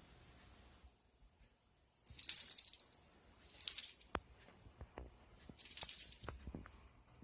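Small jingle bell shaking in three jingling bursts, with a few soft knocks in between.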